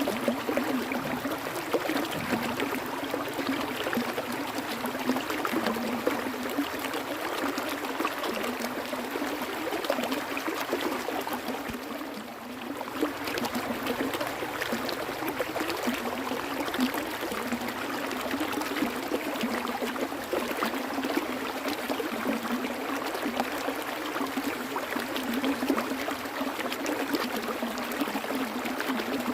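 Stream water flowing and trickling steadily, with many small gurgles and splashes throughout.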